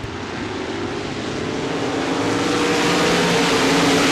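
A pack of RaceSaver sprint cars' V8 engines accelerating on a green-flag restart, the engine noise growing steadily louder.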